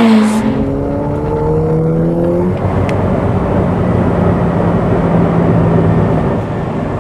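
Ferrari F8 Tributo's twin-turbo V8 under hard acceleration. The revs climb for the first two and a half seconds, then an upshift drops them to a steadier, lower note.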